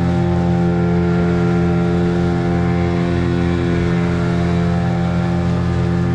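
Motorboat's outboard engine running at a steady throttle, an even unchanging drone.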